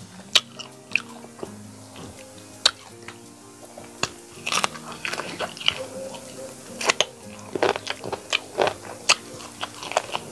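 Close-miked sounds of a person eating chicken curry by hand: biting and chewing with frequent sharp, irregular mouth clicks and smacks, over soft background music.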